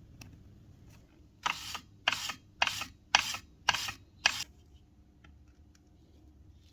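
Six short, sharp noisy strokes in a steady rhythm about half a second apart, starting about a second and a half in.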